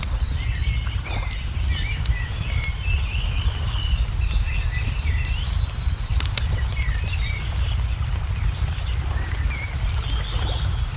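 Small songbirds chirping and twittering over a wood fire's scattered crackles and pops, with a steady low rumble underneath.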